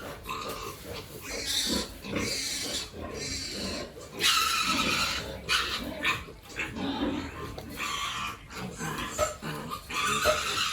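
Several pigs squealing and grunting, in repeated harsh squeals of up to about a second each, the longest and loudest about four seconds in.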